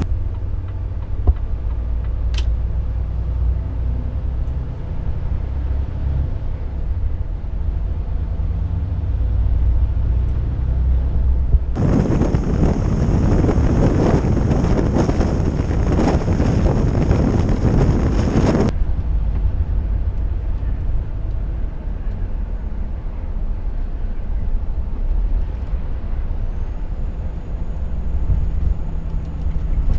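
Volvo truck driving, heard from inside the cab: a steady low engine and road drone, with a much louder rushing noise from about 12 s to about 18 s that starts and stops abruptly, and a couple of brief clicks.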